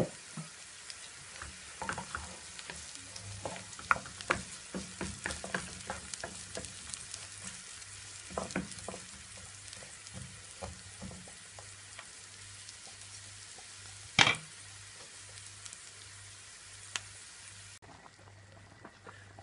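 Chopped onion and grated carrot sizzling in a frying pan while being stirred with a wooden spatula, with scrapes and taps of the spatula against the pan. One louder knock comes about two thirds of the way in, and the sizzle cuts off abruptly near the end.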